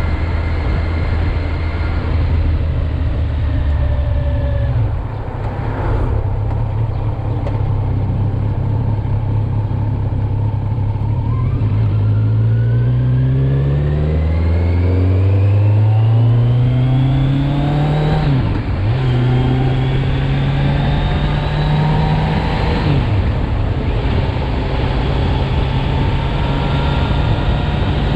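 Kawasaki Z900's inline-four engine, in its 35 kW A2-restricted version, running under way. Its pitch climbs steadily for several seconds as the bike accelerates, then dips briefly twice and holds at a higher steady note.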